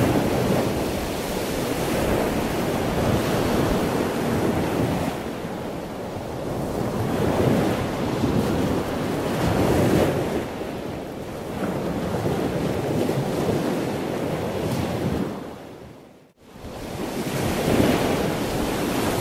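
Rushing of ocean waves, swelling and easing every few seconds, with a brief drop-out about sixteen seconds in.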